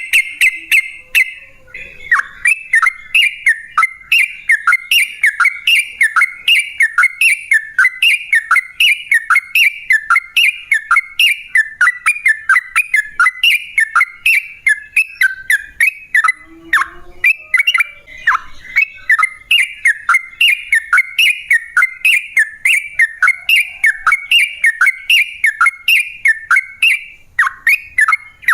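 Yellow-vented bulbul (trucukan) singing a long, rapid run of short slurred whistled notes, about three a second, with brief pauses about two seconds in and again past the middle. A faint high ticking runs along with the song.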